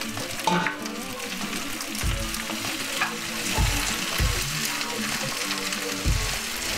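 Spinach sizzling in hot oil with cumin, garlic and chilies as it is stirred in the pan, with a few knocks and scrapes from the stirring.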